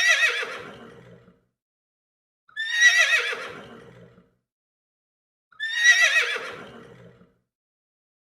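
Horse whinnying three times, about three seconds apart. Each whinny starts high and falls away with a quavering, trembling pitch.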